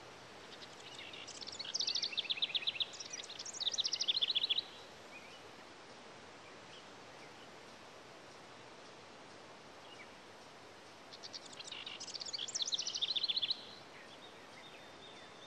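A songbird singing two short phrases of rapid trilled notes, one about a second in and one about eleven seconds in, over a steady outdoor background hiss.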